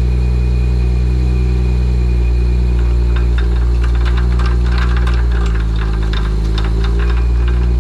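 Chevrolet Silverado 2500HD pickup's engine and drivetrain giving a steady, even drone while towing a trailer, with light rattles over it.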